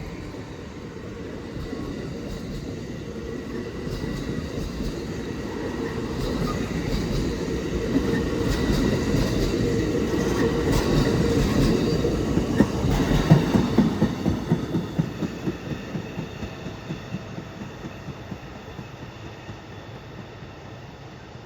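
Amtrak passenger train passing: the rumble of its wheels builds to a peak about thirteen seconds in, then a quick run of wheel clacks over the rail joints fades as it draws away.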